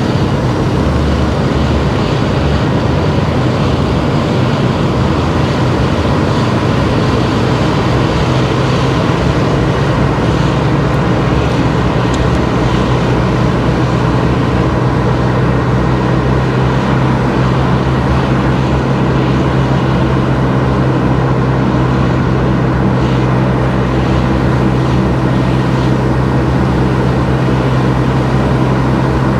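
A car being driven at a steady pace: a constant engine hum with road and tyre noise that holds even throughout.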